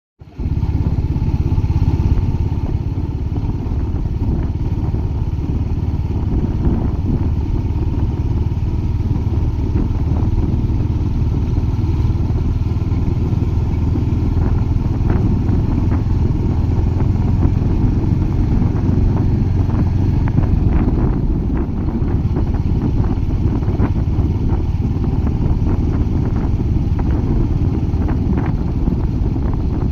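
Royal Enfield Hunter 350's 349 cc single-cylinder engine running, a steady low exhaust note that eases off briefly about 21 seconds in, with scattered light ticks in the second half.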